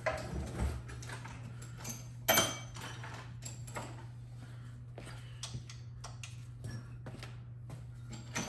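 Tools and metal parts of a paint sprayer's pump gearbox being handled during disassembly: scattered light clicks and taps, with one sharp clack a little over two seconds in. A steady low hum runs underneath.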